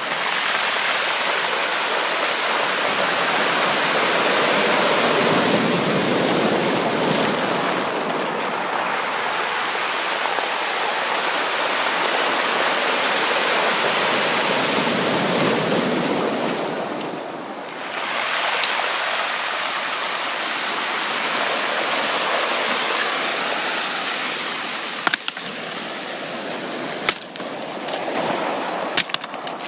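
Sea waves breaking and washing up a beach in slow surges, with a brief lull about two-thirds of the way through. Near the end the surf eases and scattered sharp clicks and ticks come through.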